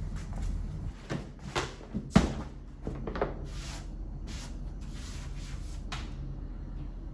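A few sharp knocks and clacks of household things being handled, such as cupboard doors or drawers, the loudest about two seconds in, over a low steady hum.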